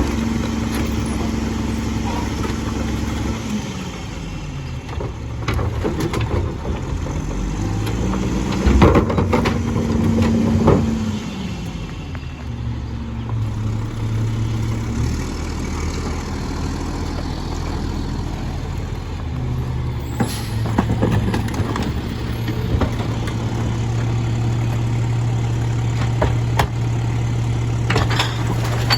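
Mack LE garbage truck's diesel engine dropping in speed, revving up and back down, then running steadily at a low idle, with several clanks and knocks from the truck.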